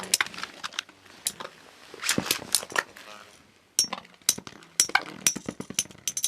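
Metal Beyblade spinning tops, Diablo Nemesis among them, colliding in battle: a run of sharp metallic clacks, some with a short high ring, coming thicker in the second half.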